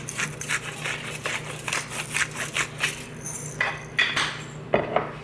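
Pepper grinder being twisted over potatoes: a quick run of crunching clicks, several a second, with a few louder strokes near the end.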